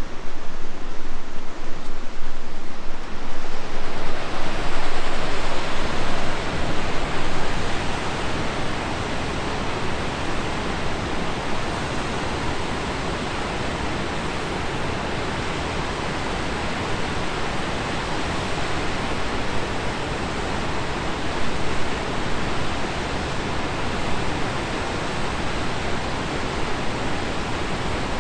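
Rushing water of the Tallulah River's falls and cascades, a loud steady noise. It thickens and evens out about four seconds in.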